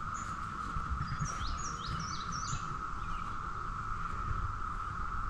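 Birds chirping: a quick run of about half a dozen short, falling chirps about a second in, over a steady high-pitched drone and low background rumble.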